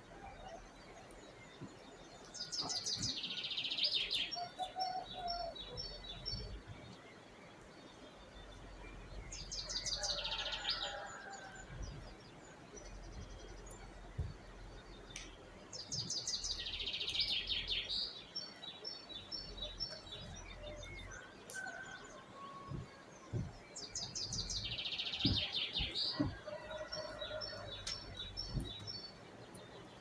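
A songbird singing, four times, roughly every seven seconds: each phrase is a dense, fast trill followed by a short run of high, evenly spaced notes. Fainter calls from other birds come between the phrases, over a low steady outdoor rumble.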